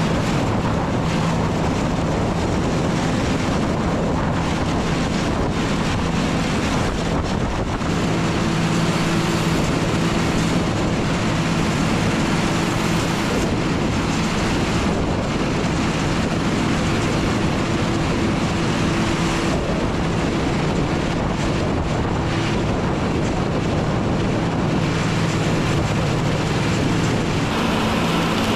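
Tractor engine running steadily, a constant hum with a rushing, gusting wind noise over the microphone.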